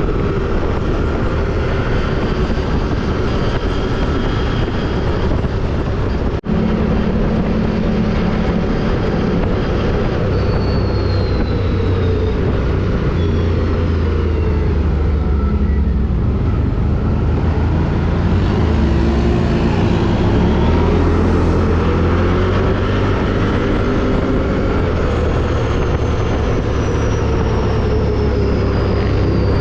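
ATV (quad bike) engine running under load while riding, its pitch rising and falling as the throttle opens and closes. The sound drops out for an instant about six seconds in.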